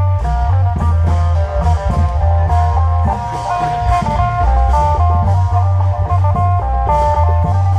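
Isan long-drum (klong yao) band music: a fast electric plucked-string melody over heavy, steady drumming.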